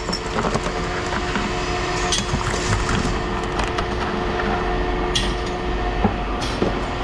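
Pieces of scrap metal being handled and set down, with a few short metallic clinks about 2, 5 and 6.5 seconds in, over a steady low hum.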